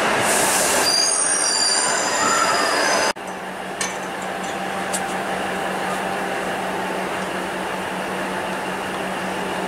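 Train running through the station with a few high wheel squeals, cut off suddenly about three seconds in. Then the steady low hum of a DEMU diesel railcar standing while it is refuelled, with a couple of sharp metal clicks.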